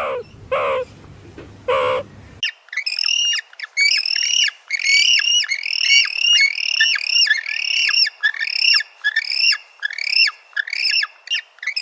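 A crow caws a few times. About two and a half seconds in, another bird takes over with a fast, even series of high, arched calls, two or three a second, that runs on to the end.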